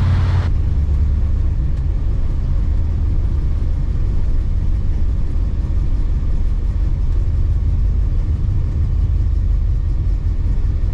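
Steady low rumble of a 1972 Oldsmobile Cutlass's 350 Olds V8 and road noise, heard from inside the cabin while cruising at about 45 mph. A rushing hiss cuts off about half a second in.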